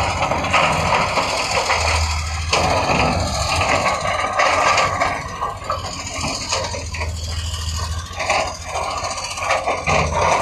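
Heavy earthmoving machinery at work: a diesel engine running with a low hum that swells and eases, over scraping and rattling, with a sharp knock about two and a half seconds in.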